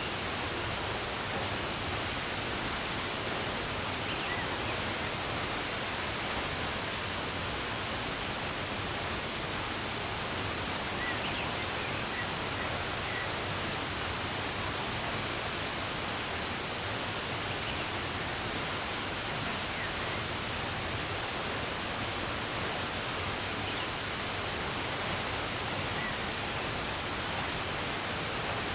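Steady sound of running water, with a few faint, short bird chirps now and then over it.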